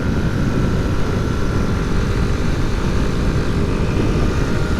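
Honda C90's small single-cylinder four-stroke engine running at a steady cruise, under heavy wind rush on the rider's microphone.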